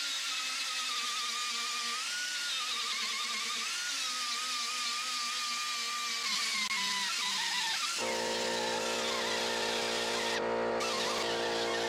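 Pneumatic angle die grinder with a 40-grit Roloc disc grinding off a door rivet; its high whine wavers and sags slowly in pitch as the disc bears on the metal. About eight seconds in, the sound switches abruptly to a steady hum made of many tones.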